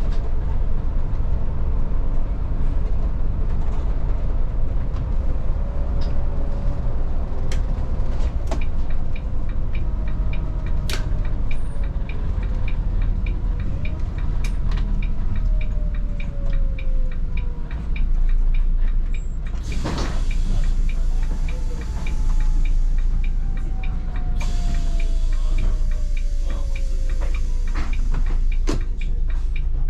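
Volvo 8900 bus heard from inside the cabin: the diesel engine runs under way over a heavy road rumble with rattles and knocks, its pitch rising and falling as it pulls and changes gear. A regular ticking joins about nine seconds in, and a hiss comes in about two-thirds of the way through.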